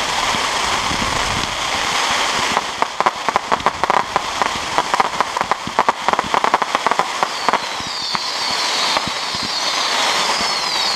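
Fireworks going off: a steady rumble and hiss, with a long run of rapid crackling from about 3 to 7 seconds in, then several high, wavering whistles overlapping near the end.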